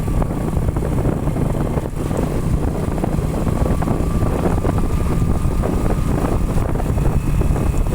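Motorcycle engine running steadily while riding, mixed with wind buffeting on the microphone.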